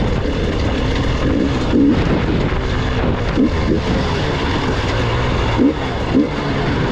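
Gas Gas EX 300 two-stroke enduro motorcycle engine running under a rider on rough ground, the revs rising and falling in short blips every second or so as the throttle is worked.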